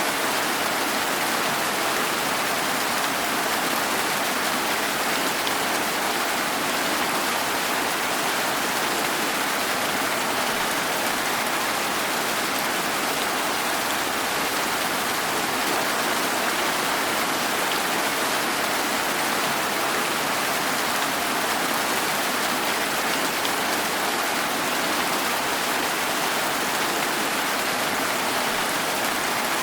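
Steady rain, an even, unbroken hiss with no single drops or thunder standing out.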